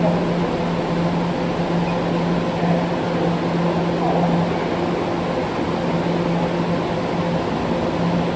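Steady mechanical hum of subway machinery, with a continuous low droning tone and no distinct knocks or passes.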